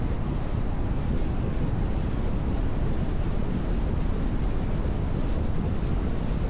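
Steady road noise of a car driving at expressway speed on a rain-wet road: a constant rumble and hiss of tyres and wind, heaviest in the low end, with no changes.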